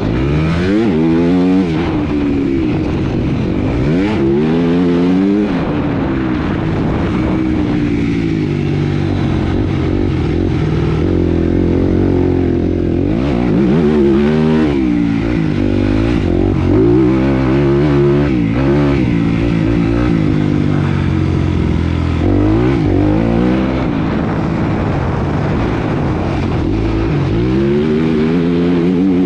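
Motocross motorcycle engines revving hard, their pitch climbing and dropping again and again as the throttle opens, gears change and the riders back off.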